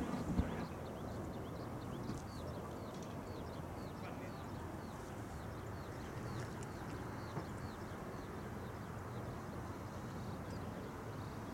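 A small bird chirping rapidly and repeatedly, short falling high notes about two or three a second, over a steady low outdoor rumble, with a couple of brief knocks near the start.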